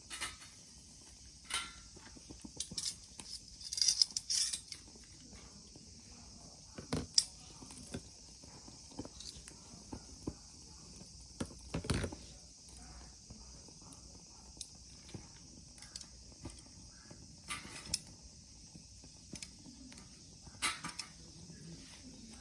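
Scattered light clicks and knocks from gear being handled, the clearest about seven and twelve seconds in, over a faint steady high hiss.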